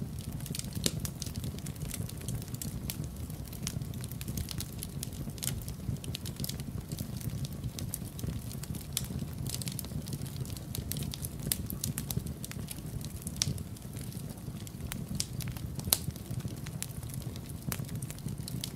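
Wood fire crackling in a fireplace: frequent irregular sharp pops and snaps over a steady low rumble, with a louder pop about a second in and another near the end.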